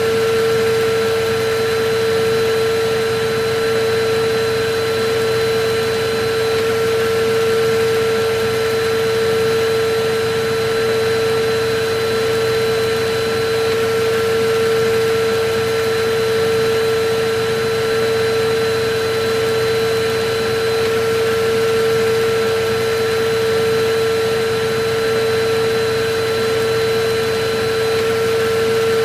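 Electric vacuum cleaner running continuously: a steady motor whine over the constant rush of air, its level swelling slightly about every two seconds.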